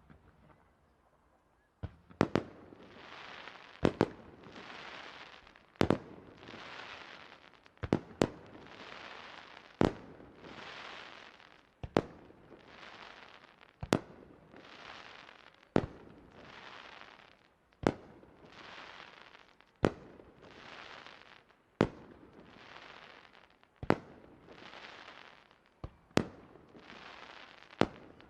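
Aerial fireworks shells bursting at a steady pace, a sharp bang about every two seconds, sometimes two close together. Each bang is followed by a hissing tail lasting about a second and a half.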